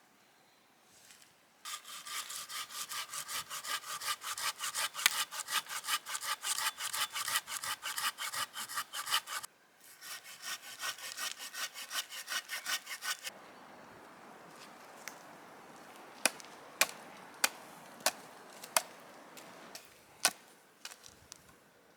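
Hand saw cutting through wood in fast, even back-and-forth strokes, with a short pause in the middle. After that comes a quieter rustle with half a dozen sharp knocks.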